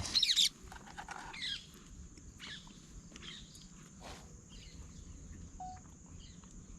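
Forest ambience. A bird gives a short, loud burst of quick, falling high notes right at the start, then fainter chirps follow. A steady high insect drone runs underneath, and there is one sharp knock about four seconds in.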